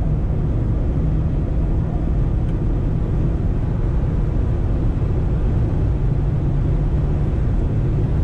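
Steady low drone inside the cabin of a Jeep Wrangler 4xe plug-in hybrid on the move, with road and drivetrain noise holding at an even pitch and level.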